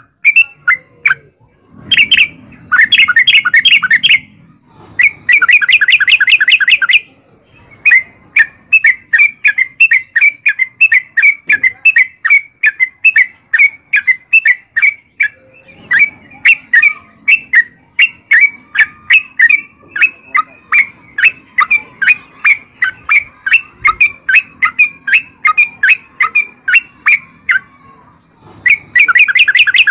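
Yellow-vented bulbul (trucukan) singing: dense bubbly bursts of song alternate with a long run of quick, rapidly repeated short notes, several a second, sustained for about twenty seconds.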